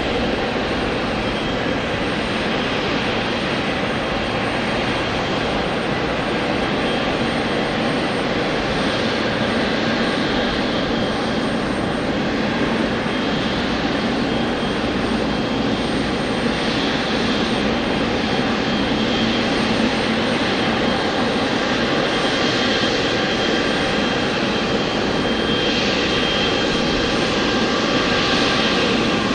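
Jet airliner engines running steadily: an even rush of noise with a faint high whine over it, swelling slightly near the end.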